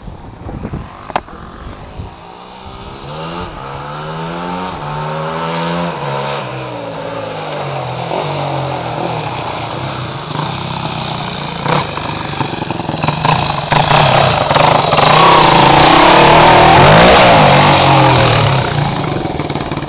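Yamaha WR250F four-stroke single-cylinder dirt bike running through a Higashi aftermarket exhaust. The bike gets steadily louder as it comes closer, is loudest about three-quarters of the way through, then begins to fade.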